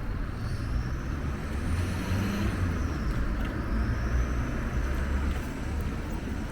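Road and traffic noise with a heavy low wind rumble on the microphone, heard while riding a bicycle; the noise swells a little in the middle.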